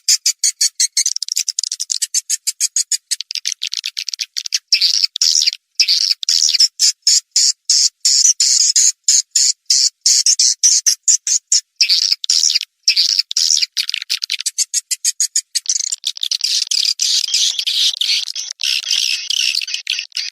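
Swiftlet lure-call recording: rapid, high-pitched chirping and clicking of edible-nest swiftlets in quick strings of short notes. About sixteen seconds in, it turns into a denser, continuous twitter.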